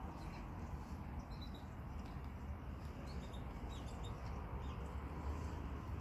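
Faint, scattered high bird chirps over a steady low rumble.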